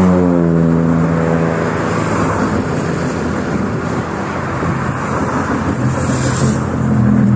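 Airplane passing low overhead: a loud engine drone whose pitch falls in the first second as it goes by, then a broad rushing roar. A steady low hum comes back near the end.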